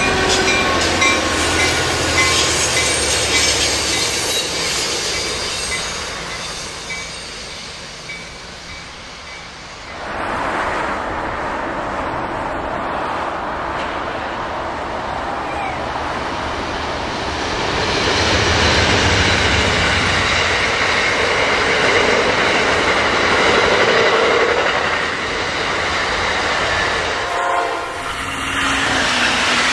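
Passenger trains passing on the track, wheels rumbling and clacking over the rail joints, with a train horn sounding. In the middle stretch the train is an Amtrak train hauled by two GE Genesis diesel locomotives.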